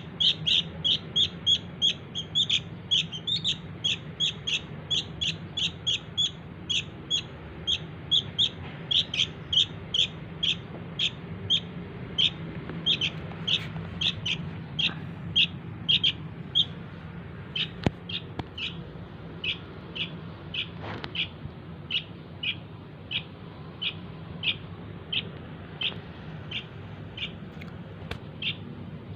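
Sooty-headed bulbul chick giving a long series of short, high chirps, the begging call used to lure the parent birds. The chirps come about three a second at first and slow to about one and a half a second, with a short break about two-thirds of the way through.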